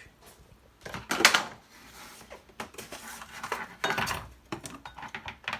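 Clattering and clinking of kitchen items being handled, with the loudest clatter a little over a second in and scattered knocks and clicks after it.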